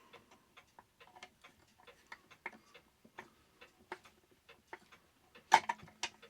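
Small, irregular metallic clicks and taps of a screwdriver working screws and washers into the mounting of a Herschede clock movement, with one louder knock about five and a half seconds in.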